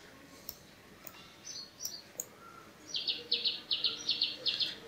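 A small bird chirping in quick repeated bursts of short high chirps, about four or five bursts a second, in the second half. A few soft clicks come before it.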